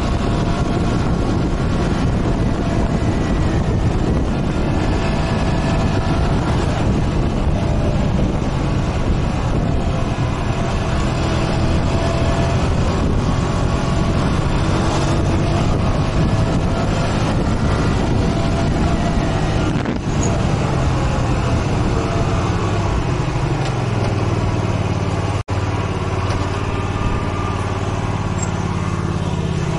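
Motorcycle engine running under way, mixed with steady wind and road noise; the engine note grows stronger in the last few seconds. The sound drops out for an instant about 25 seconds in.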